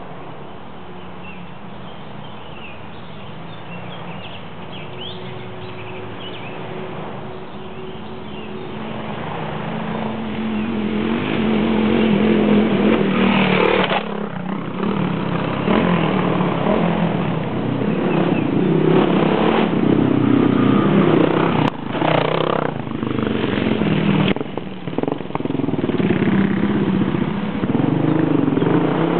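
Single-cylinder dual-sport motorcycle engine approaching, growing steadily louder over about ten seconds, then running close by with the throttle rising and falling in repeated revs.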